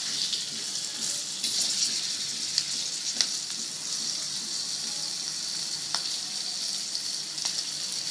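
Masala-stuffed green chillies sizzling in hot oil in a non-stick wok on a medium-to-high flame, a steady hiss, with a few sharp taps and scrapes of a spatula as they are turned.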